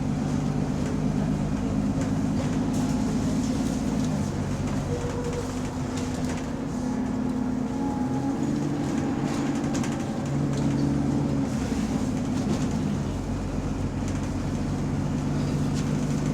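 Bus engine running under way, heard from inside the bus, its note rising and falling several times as it pulls away and changes gear. The bus has an exhaust leak that is said to be heard more from outside.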